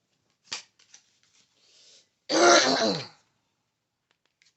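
A person clears their throat once, loudly, about two seconds in, with a short click about half a second before it.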